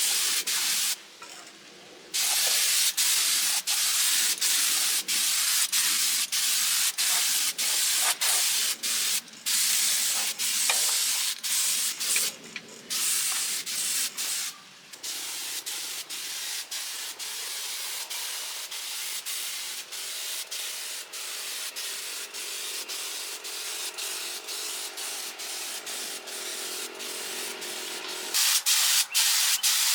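Compressed-air tool hissing in repeated bursts, cut off briefly many times as the trigger is released. It is softer through the second half and louder again near the end.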